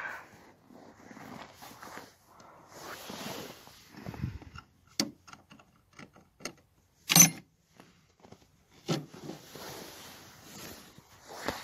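Hand tools being handled while working on a lawnmower: scattered clicks and scraping, with one loud sharp knock about seven seconds in.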